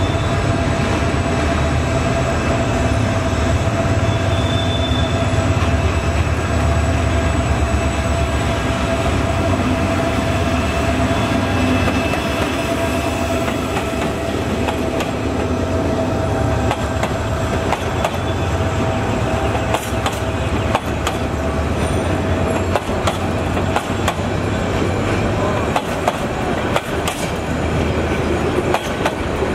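Diesel locomotive running with a steady low engine drone and a steady whine above it. From about twenty seconds in, the sharp clicks of train wheels over rail joints join in as the train rolls by.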